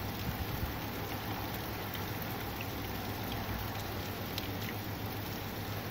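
Steady rain falling: an even hiss with no thunder.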